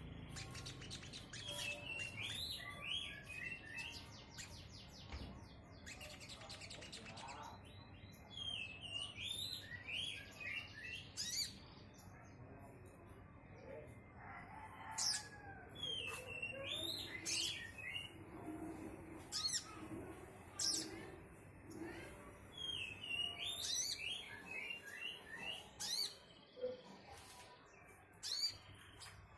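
Sunbird singing: bursts of short, high twittering chirps, repeated phrase after phrase, with a fast trill a few seconds in.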